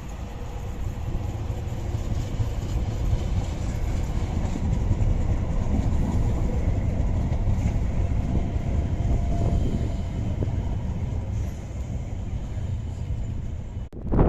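Passenger train running past on the rails with a steady low rumble that builds through the middle and eases off, breaking off abruptly near the end.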